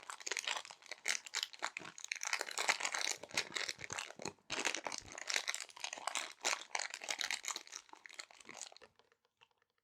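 Small resealable plastic bags crinkling and rustling as they are handled: dense crackling with a brief break a little before the middle, stopping about nine seconds in.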